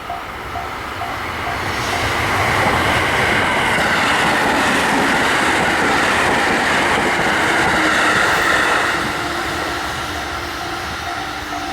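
Electric train passing a Japanese level crossing: the rumble and clatter of its wheels on the rails swells over the first two seconds, stays loud, and falls away after about nine seconds. The crossing's warning bell rings its rapid, steady 'kan-kan' at the start and again near the end, drowned out while the train goes by.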